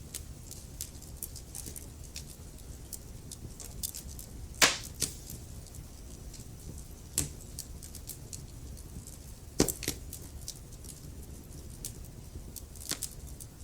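Wood fire crackling in a fireplace: a steady low rumble under constant small crackles, with a handful of sharper pops, the loudest about a third of the way in.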